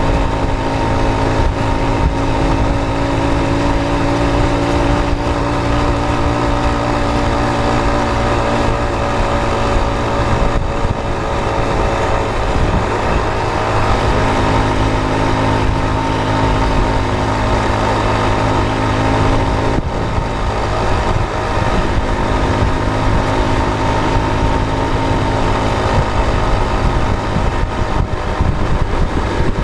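A road vehicle's engine running steadily while driving, over a constant low rumble; its pitch shifts a couple of times, about halfway through and again later.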